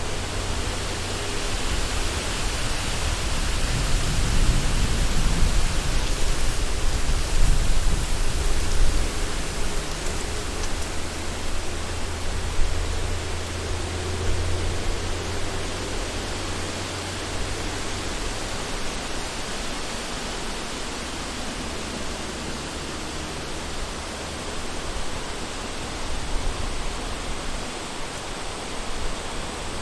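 Wind blowing through a forest, a steady rushing noise that builds into stronger gusts with a low rumble in the first half, then eases to a steadier, gentler blow.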